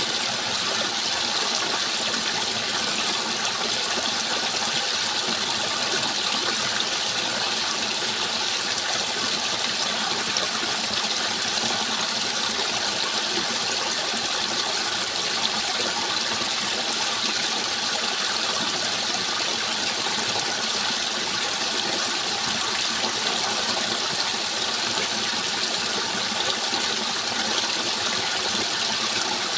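Water rushing steadily, a continuous even splashing hiss that does not change.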